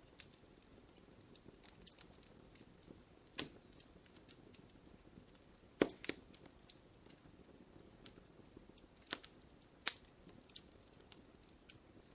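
Wood fire crackling in a fireplace: scattered sharp snaps and pops over a faint low hiss. A few louder pops come about three and a half seconds in, around six seconds, and again around nine to ten seconds.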